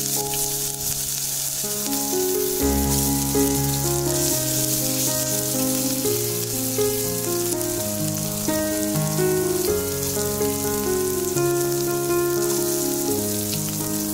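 Ginger and chopped vegetables sizzling as they fry in hot mustard oil in a kadai, a steady hiss throughout. Instrumental background music with a simple changing melody plays over it.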